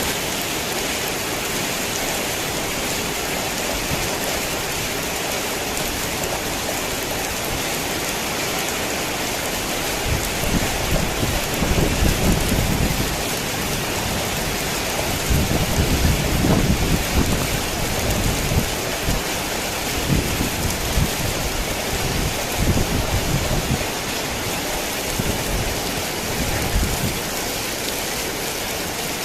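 Heavy rain falling steadily, with rolling thunder rumbling low about ten seconds in and again around sixteen seconds, and weaker rumbles later.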